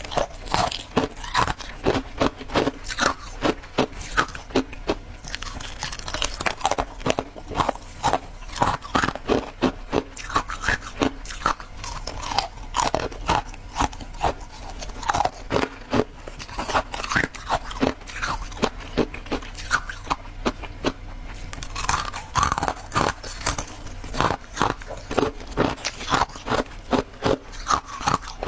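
Close-miked chewing of shaved ice: rapid, irregular crunching, several crunches a second, that keeps on without a break.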